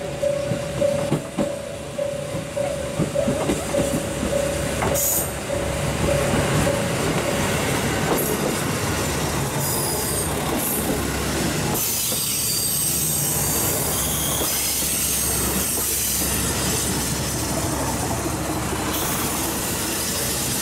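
KiHa 185 diesel railcar of the Kyushu Odan limited express running slowly past at close range: engine rumble and wheels clicking over rail joints, then high squealing from the wheels and brakes over the second half as it pulls into the station.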